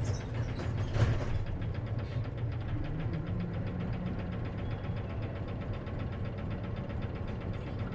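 Diesel engine of an Isuzu KC-LV380N route bus running steadily, heard from inside the cabin, with an even throb. One sharp knock or rattle about a second in.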